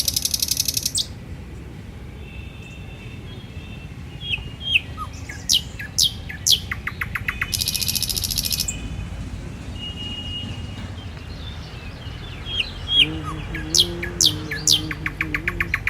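Wild birds calling: sharp high whistles that sweep quickly downward, with bursts of fast chattering trills at the start and again about eight seconds in.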